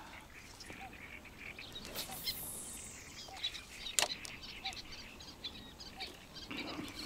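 Birds chirping outdoors, with a short lower call repeating every second or so and one sharp click about four seconds in.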